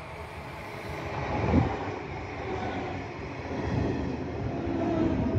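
Red DB S-Bahn electric train approaching and passing close by at speed, its rumble and wheel noise growing louder. There is a brief loud whoosh about one and a half seconds in, and steady humming tones in the latter half.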